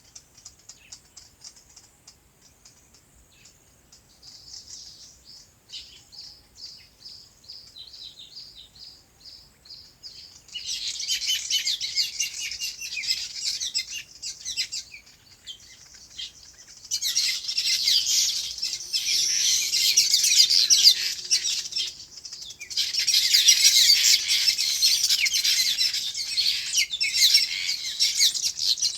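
Small birds chirping and twittering. A faint run of quick repeated high notes comes first, then loud dense chattering of several birds in three spells, from about a third of the way in to the end.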